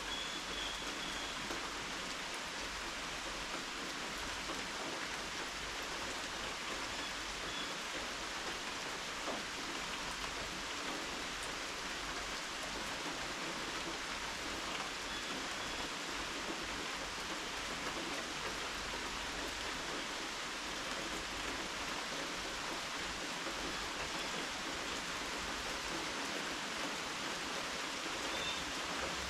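Steady rain falling, an even hiss of rain on surfaces that holds constant with no letup.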